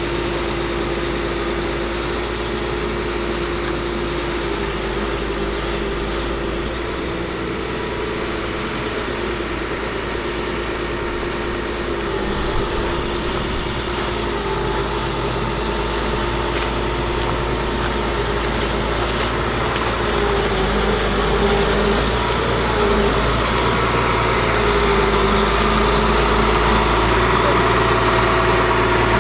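Caterpillar C7 diesel engine of a medium-duty truck idling steadily, getting a little louder in the last third, with a few light clicks in the middle.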